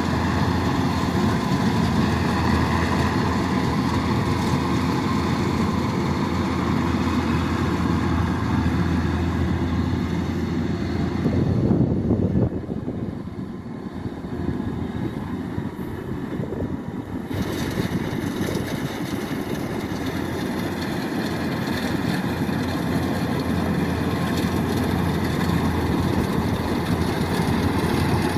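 Kubota DC-108X rice combine harvester running steadily. About twelve seconds in, the sound drops in level and turns duller for about five seconds, then comes back up.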